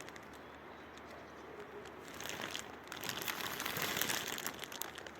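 Close rustling and crackling that grows louder from about two seconds in and eases near the end, over a steady background hiss.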